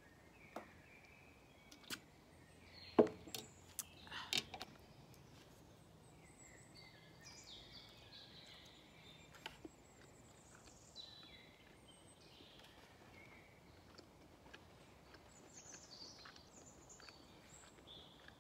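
Faint songbirds singing with chirps and trills, mostly from about six seconds in. Before that, a few sharp clicks and knocks, the loudest about three seconds in.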